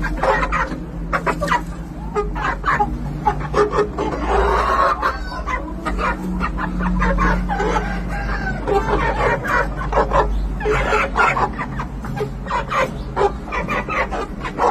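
A flock of Peruvian gamefowl in their pens, many birds clucking and calling at once, with a rooster crowing about four seconds in, over a steady low hum.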